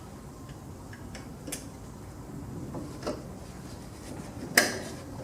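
Metal deck hardware clinking and knocking as a lawn tractor's mower deck is fitted and lined up, with a few light clicks and one sharp metallic clank near the end.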